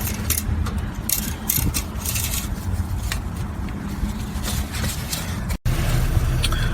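Light scraping and rustling handling noises over a steady low background rumble, cut off for an instant near the end.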